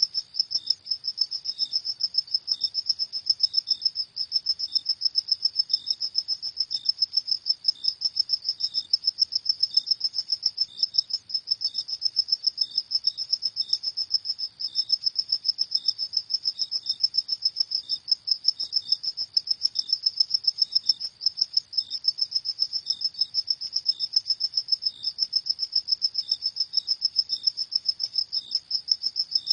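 Crickets chirping at night in a steady, rapid, high-pitched pulse, with a second, lower-pitched cricket chirping about once a second underneath.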